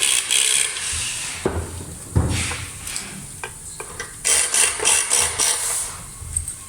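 Hands handling and fitting the parts of an LED flood light: irregular bursts of rustling and scraping, with a couple of knocks about one and a half and two seconds in.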